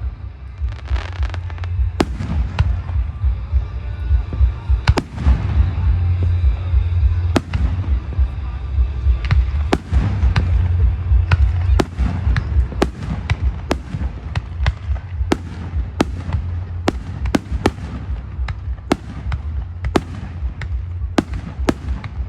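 Fireworks going off in a steady barrage: sharp bangs one or two a second over a continuous low rumble of further explosions.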